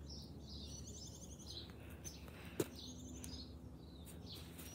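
Small birds singing with repeated short, high trilling phrases over faint background noise. One sharp knock about halfway through, from the person crawling on the ground close to the camera.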